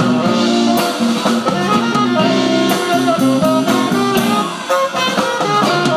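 Live band playing jazz, a saxophone carrying sustained melody notes over bass and a drum kit with cymbal hits.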